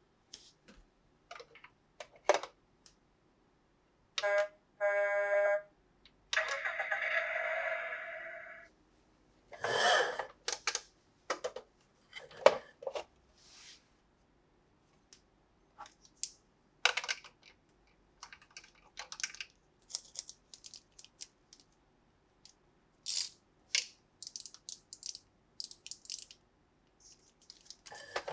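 Plastic toys and their packaging being handled: scattered clicks, taps and rustles. About four seconds in, a short pitched electronic sound plays for a second or two.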